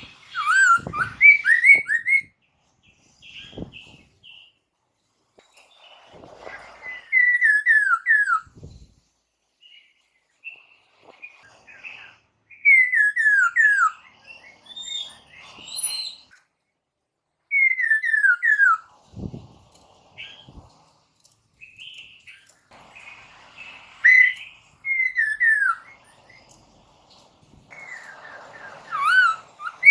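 Poksay mandarin (laughingthrush) singing: phrases of four or five clear whistled notes that step down in pitch, repeated every few seconds, with softer chattering notes between. There are a few low thumps in between.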